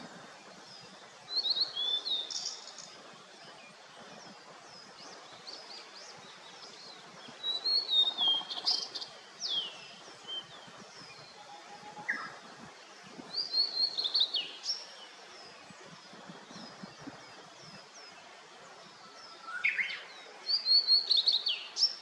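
Blue-and-white flycatcher singing: four loud phrases of quick falling, sliding notes a few seconds apart, over a steady background of faint, repeated chirps from other small birds.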